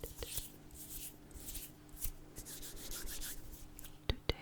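Fingers and hands rubbing close to the microphone, a soft dry brushing, then two finger snaps in quick succession near the end.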